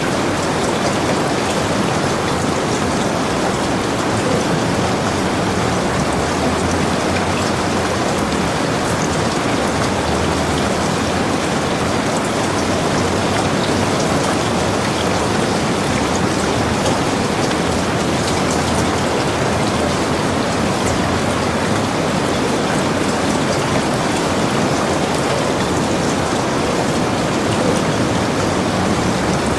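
Heavy rain falling steadily, an even hiss of many drops without a break.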